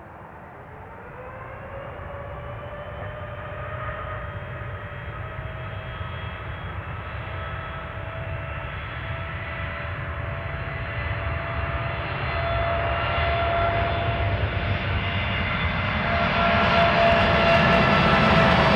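Boeing 787-8 jet engines spooling up for takeoff: a whine of several tones rises in pitch over the first few seconds and then holds. Over a deep rumble, it grows steadily louder as the airliner rolls closer, and a hissing roar fills in near the end.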